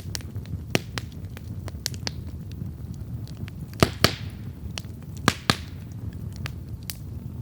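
Wood campfire burning with a steady low rumble and scattered sharp crackles, with two loud pairs of pops about halfway through, each pair trailing a short hiss.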